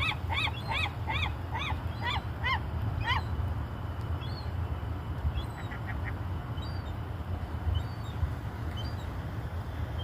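A large bird, gull- or goose-like, calling a series of about eight honking notes that slow down and stop about three seconds in, over a steady low rumble; a few faint chirps follow.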